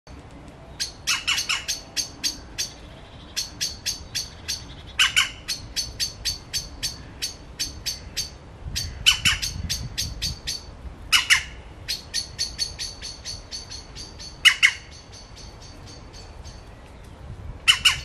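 Small birds scolding with a rapid series of sharp chips, about three a second, broken every few seconds by a louder harsh squawk: alarm calls mobbing a cat.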